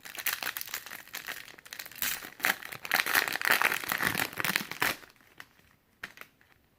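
Wrapper of a Panini Prizm card pack being torn open and crinkled by hand. It crackles for about five seconds, loudest in the second half, then stops.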